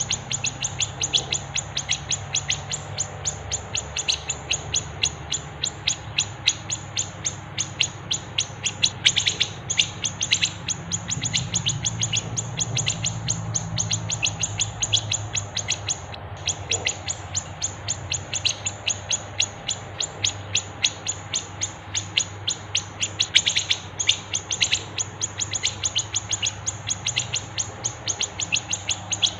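Songbird chirping in a rapid, unbroken run of short sharp chirps, several a second, from a bird-song training (masteran) recording, over a faint steady low hum.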